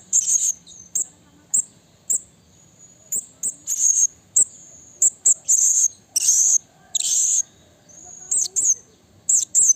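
Blue-crowned hanging parrot (serindit) calling: a quick, irregular series of very high, thin, short chirps, with a few longer, harsher buzzy calls in the middle.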